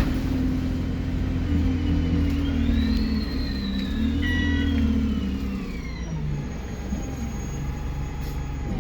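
Alexander Dennis Enviro 200 bus's diesel engine pulling with a loud turbo whistle: a high whine rises over about a second, then falls slowly over the next few seconds as the engine eases off.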